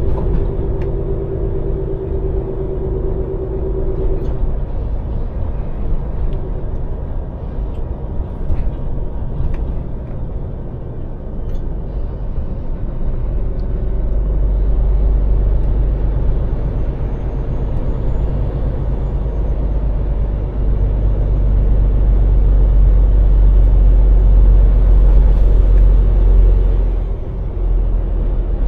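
Scania lorry's diesel engine running under way, a steady low drone that grows louder from about halfway through, with a brief dip near the end. A steady whine sits over it for the first few seconds.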